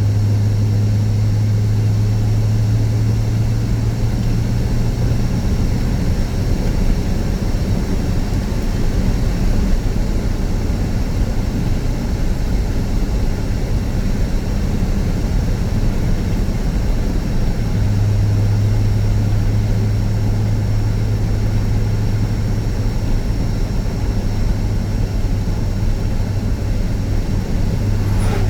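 Car driving, heard from inside the cabin: steady road and engine noise with a low drone that drops away for a stretch in the middle and comes back.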